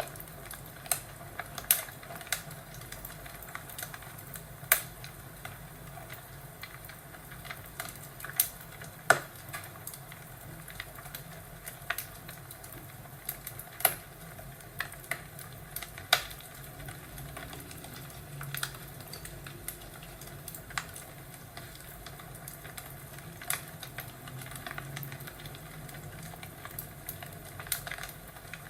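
Wood fire crackling, with irregular sharp pops and snaps every second or two over a low steady rumble.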